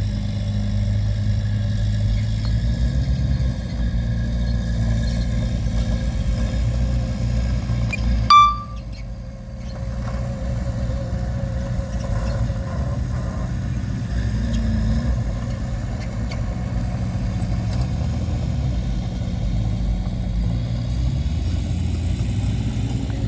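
Heavy diesel engine of earthmoving machinery running steadily with a low hum. About eight seconds in there is a short, loud high beep, and the engine sound dips briefly after it.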